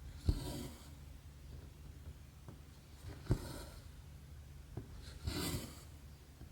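A cross-stitch needle ticks through 11-count stamped cross-stitch canvas, and the floss is drawn after it with a short swish. This happens three times, about every two and a half seconds, over a steady low hum.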